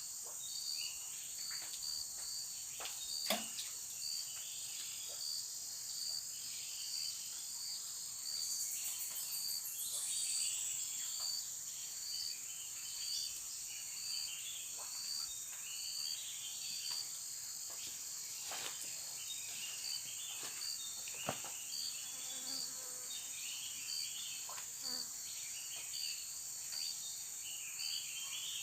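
Forest insect chorus of crickets and cicadas: a steady high-pitched buzz with a pulsing call repeating about once a second and scattered chirps. About a third of the way in, one louder insect call swells and then fades away. A few sharp snaps stand out.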